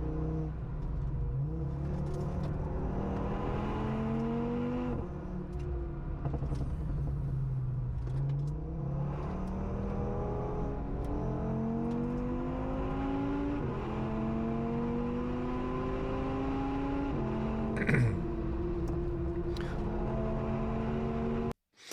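Audi RS3 2.5-litre turbocharged five-cylinder engine, swapped into an Audi S1, accelerating hard on track. Its pitch climbs and then drops suddenly at each upshift, several times over. A short sharp crack is heard near the end.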